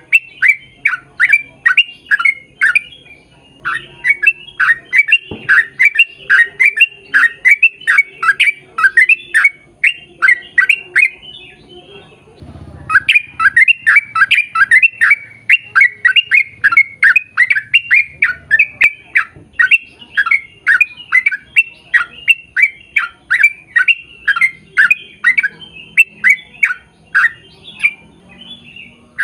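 A bird calling over and over in short, rapid calls, about four a second, with two brief pauses.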